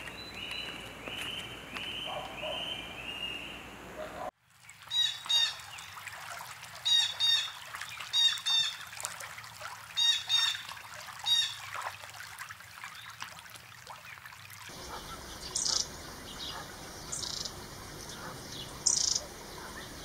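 Wild birds calling, with the soundscape changing abruptly about four seconds in and again near fifteen seconds. The loudest part is a run of short call phrases repeated in groups from about five to twelve seconds. After that come scattered high chirps.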